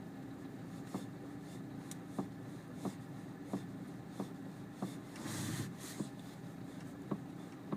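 Knocking from a Lada Granta's steering as the wheel is turned: short, sharp knocks about every two-thirds of a second over a steady low hum, with a brief rustle just past the middle. The knock is a steering fault on a car with only 5,700 km.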